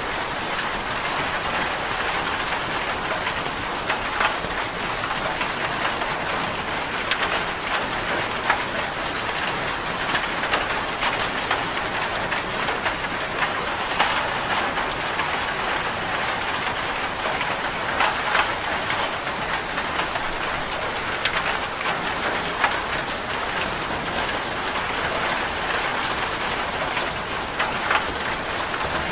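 Steady rain falling, an even hiss with scattered sharper clicks of drops throughout.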